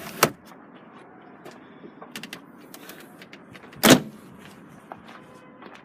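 Boot luggage cover of a BMW 330d Touring being handled: a sharp click just after the start, small knocks, then a louder thud about four seconds in.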